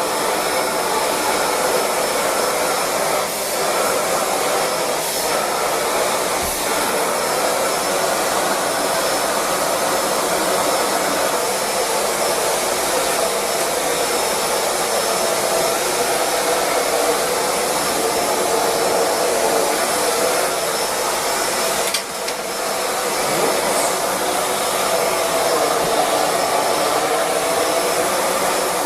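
Shark Rotator Speed Lift-Away vacuum cleaner running steadily in lift-away mode with its Hard Floor Hero attachment, a constant motor whine and airflow rush. The sound dips briefly about three quarters of the way through.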